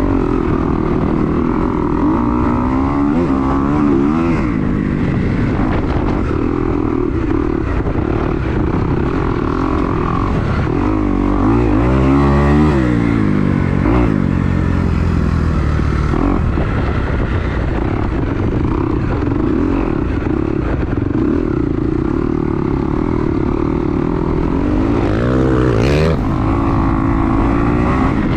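2022 Kawasaki KX250 four-stroke single-cylinder motocross bike being ridden, its engine revving up and falling back several times as it accelerates and shuts off, with heavy wind buffeting the microphone.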